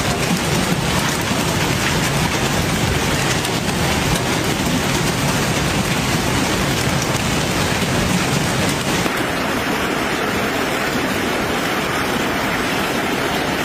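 Hailstorm: hail and heavy rain pounding down in a dense, steady hiss. About nine seconds in the sound shifts and the highest part of the hiss drops away.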